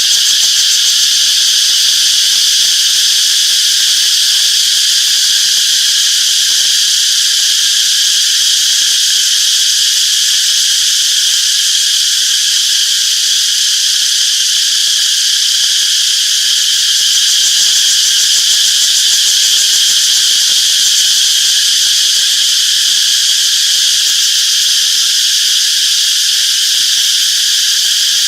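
A chorus of cicadas chirping: a loud, steady, high-pitched buzz that holds without let-up.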